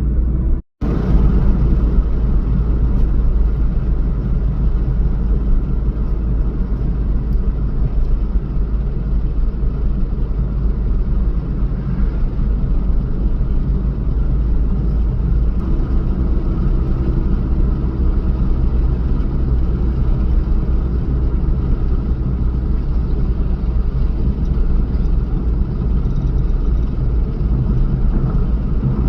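Steady rumble of a vehicle on the move, deep and unbroken, with a brief dropout of a fraction of a second shortly after the start.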